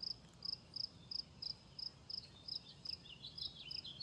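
Cricket chirping steadily, about three short pulsed chirps a second. About halfway through, a second caller's quick, short falling chirps join in, slightly lower in pitch.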